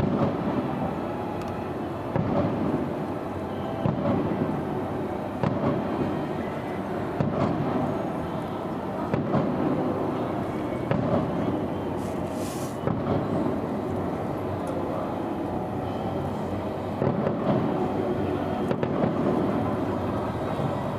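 Distant fireworks bursts, muffled and low, repeating about every couple of seconds over a continuous rumble.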